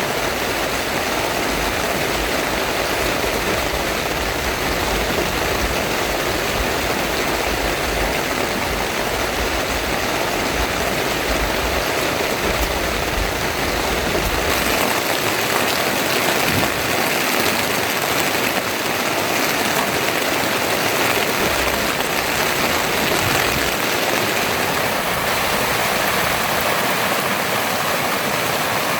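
Heavy rain falling steadily on a tent, a dense even hiss. A low rumble underneath drops away about halfway through.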